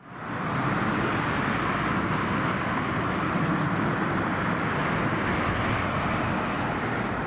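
Steady engine noise with an even rushing hiss, fading in over the first half second and then holding level.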